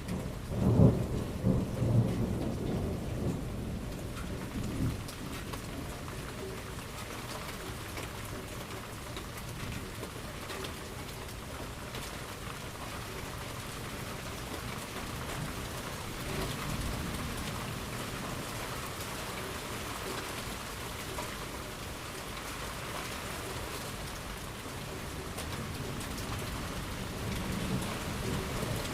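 Thunderstorm: a loud crack and rolling rumble of thunder at the start, fading over about five seconds, then steady heavy rain, with a fainter roll of thunder near the end.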